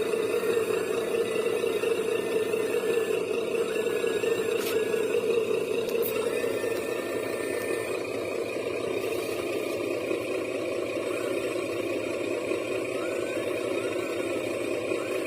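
Steady electric whir of a 1/14-scale RC construction model's motors, with faint wavering higher whines; it eases slightly partway through.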